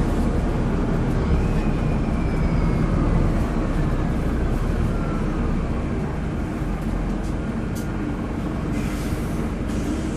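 Wright StreetDeck double-decker bus's Mercedes-Benz OM934 four-cylinder diesel engine and drivetrain running steadily while the bus is under way. A faint whine falls in pitch over a few seconds, starting about one and a half seconds in.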